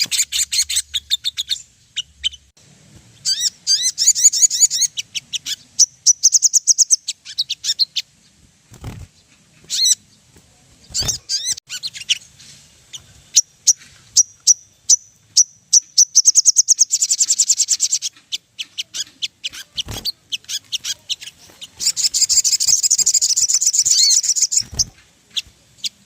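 Sogon birds singing a rapid, high-pitched stream of chirps and twittering trills, with faster, denser bursts of trilling several times; this is a lure song played to get caged sogon to sing. A few sharp clicks come through the song.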